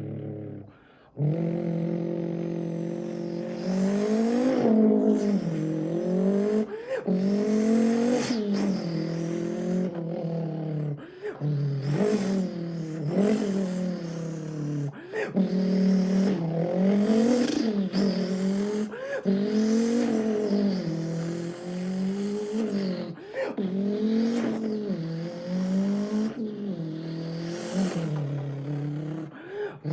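A man's voice imitating a Mazdaspeed3's engine by mouth: a buzzing hum that climbs in pitch and drops again over and over, like revving up through the gears.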